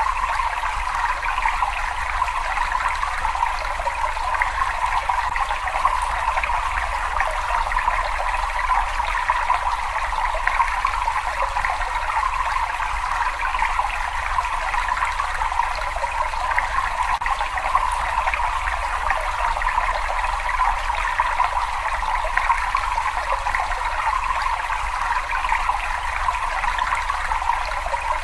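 Steady trickling and running water in a cave, with no change in level.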